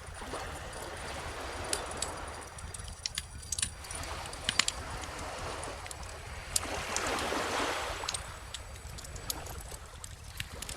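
Beach bonfire crackling, with many sharp pops scattered through, over calm ocean waves washing in and out. One wave swells and breaks about two-thirds of the way through.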